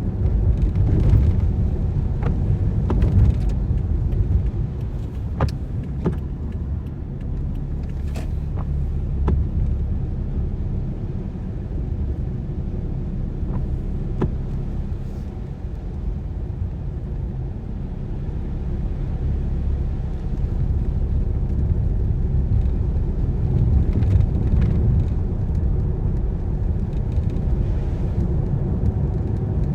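Car driving on wet roads in the rain: a steady low rumble of engine and tyres, with a few scattered sharp ticks now and then.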